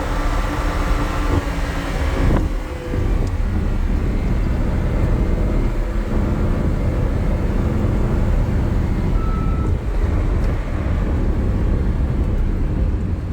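Lamborghini Huracan LP-610's V10 engine running hard at high revs on track. About two and a half seconds in, the engine note drops abruptly. It then keeps running at a lower pitch, mixed with wind and road noise.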